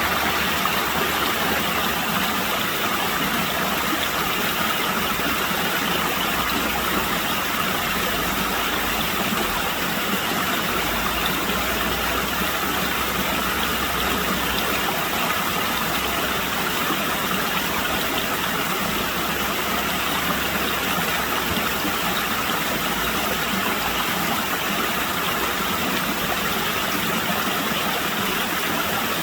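Running water rushing steadily, a continuous even noise with no let-up, with uneven low rumbles underneath.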